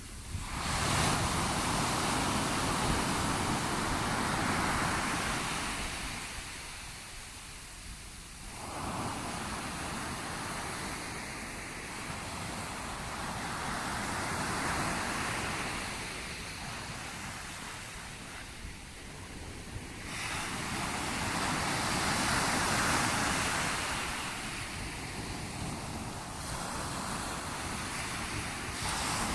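Sea waves breaking and washing up the shore, the rushing noise swelling and ebbing in slow surges of several seconds each, with four main swells.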